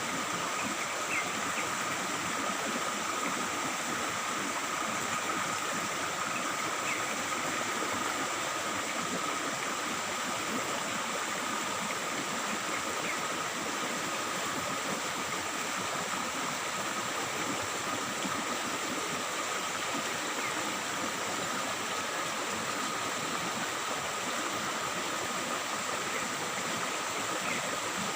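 Stream water babbling steadily, an even, unbroken rush of running water.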